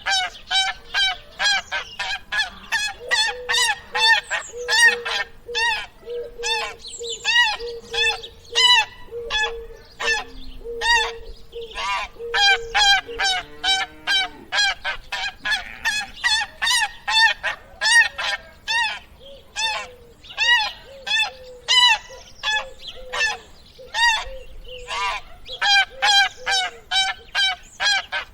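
A flock of geese honking, short nasal calls overlapping in quick succession, about three a second.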